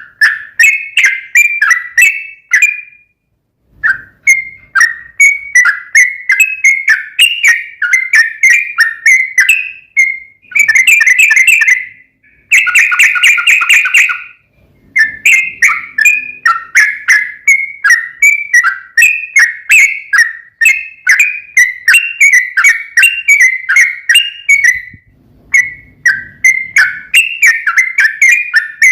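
Yellow-vented bulbul (trucuk) singing a long, loud chattering series of short whistled notes, several a second. There is a brief pause about three seconds in, and two denser, rapid bursts near the middle.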